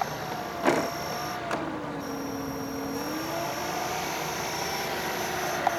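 Electric RC model airplane's motor and propeller droning, its pitch slowly rising and falling, with a sharp knock about a second in.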